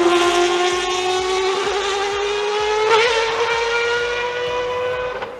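Rotary-engined car running at high revs: a high, steady engine note that climbs slowly in pitch, then fades near the end.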